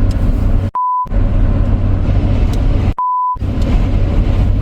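Steady low rumble of road noise inside a moving car's cabin, cut out twice by a short steady censor bleep, about a second in and again about three seconds in.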